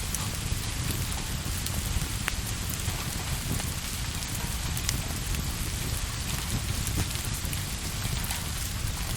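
Steady rain, an even hiss with a low rumble underneath, broken by scattered sharp ticks.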